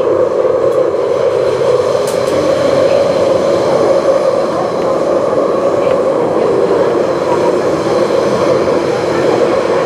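MTR West Rail Line eight-car electric train running steadily, heard from inside the passenger car: a continuous, even rumble of wheels and traction equipment.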